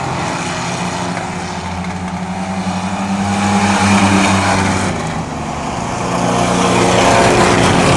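A field of stock-car racing trucks running laps on a short oval, engines at speed. The sound swells as the pack passes about four seconds in, dips, and builds again near the end.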